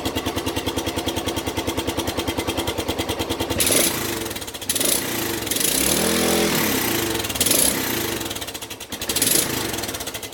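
2008 Suzuki Boulevard S40's single-cylinder engine through its stock muffler, idling with an even, steady pulse, then revved up and down a few times from about three and a half seconds in. The owner says this stock muffler gives a whining, whistling sound.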